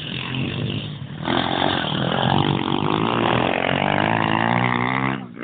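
Pit bike engine revving. It gets louder about a second in and holds high, its pitch rising and falling, then drops off sharply near the end.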